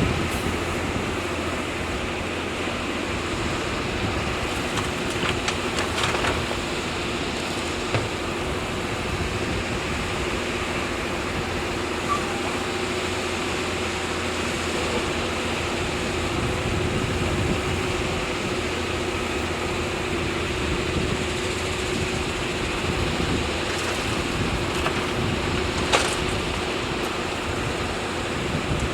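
Heavy construction machinery running steadily, a constant engine hum with a steady whine over a wash of wind-like noise, with a couple of sharp clicks about six seconds in and near the end.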